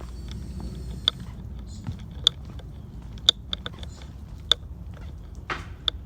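Footsteps crunching on a woodland trail: sharp crisp steps about once a second, with lighter ticks between them, over a steady low rumble. A brief rustle comes near the end.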